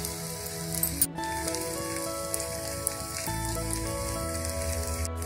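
Semolina cheela batter sizzling and crackling in oil on a hot tawa. Background music with held notes plays over it.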